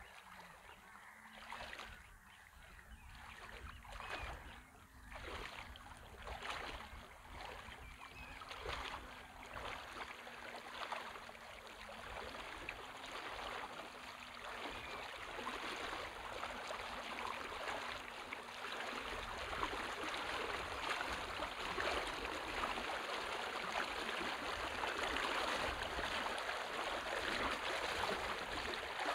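Footsteps wading and splashing through shallow tidal water, about one splash a second at first, then a denser rush of sloshing water.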